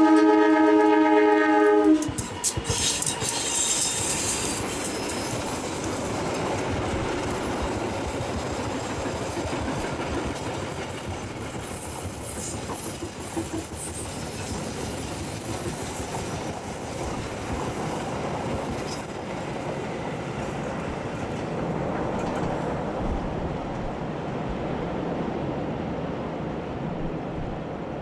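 Diesel locomotive horn sounding one loud, steady blast that stops about two seconds in, then the passenger carriages rolling past with wheels clattering over the rail joints, slowly growing fainter as the train runs off onto the steel truss bridge.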